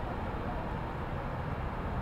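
Steady low rumble of city street traffic: an even hum of vehicles with no single distinct event.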